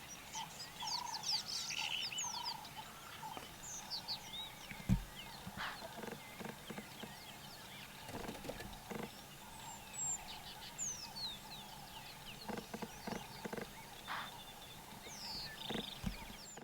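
Wild birds calling over a quiet bush background: many short chirps and whistles, with some lower repeated calls in the first few seconds. A single low thump about five seconds in.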